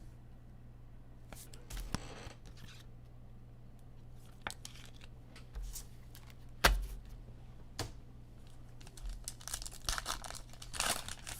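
Football trading cards and their wrapper being handled: papery rustling and crinkling, with a sharp click about two-thirds of the way in, over a steady low electrical hum.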